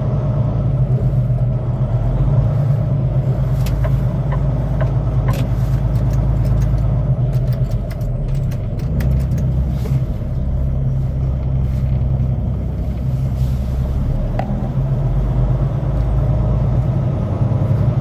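A semi truck's diesel engine running steadily with a low hum, heard from inside the cab as the rig moves slowly, with a scatter of light clicks for a few seconds in the middle.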